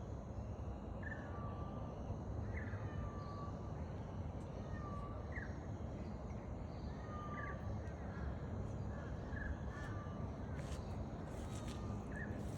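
Short animal calls repeating about once every second or so over a steady low rushing noise, with a few sharp clicks near the end.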